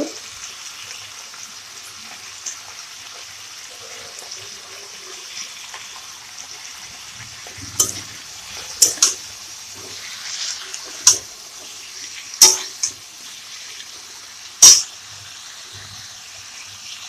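Sliced vegetables sizzling steadily in hot oil in a kadai, with a flat metal spatula scraping and knocking against the pan about six times in the second half as the turmeric and salt are stirred in; the loudest knock comes near the end.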